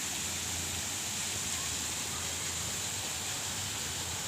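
Steady rushing hiss of falling water from a waterfall, unchanging throughout.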